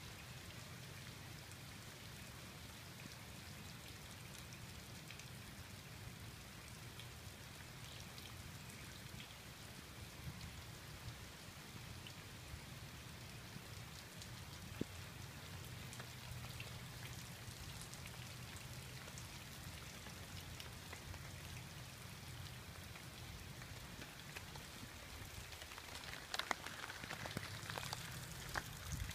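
Steady rain falling, with scattered drops ticking on surfaces over a low steady hum; the patter grows denser and louder near the end.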